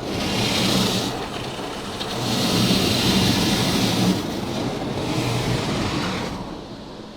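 Water jets of a Ryko Radius touchless car wash spraying over the car, heard from inside the cabin. The spray comes in three surges as the rinse makes a second pass, over a steady low hum.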